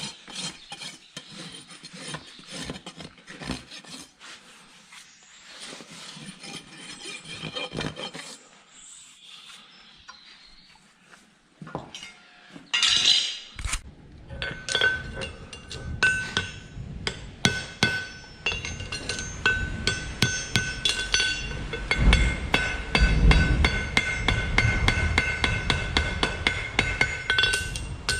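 A farrier's rasp scraping back and forth over a horse's hoof for the first several seconds. After a loud scrape about halfway in, a hammer strikes metal repeatedly with a ringing tone, as in farrier's hammer work.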